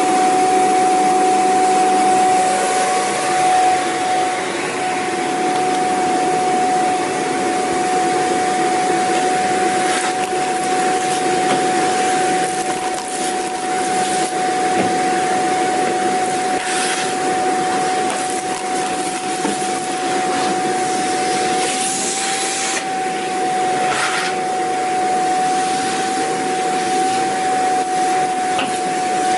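Vacuum cleaner running steadily: a rushing airflow with a constant high motor whine, and a few brief louder hissing rushes now and then.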